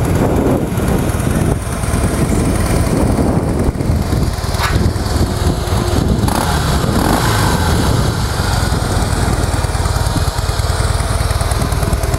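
2013 Harley-Davidson Breakout's V-twin engine idling steadily through its factory mufflers, not yet warmed up.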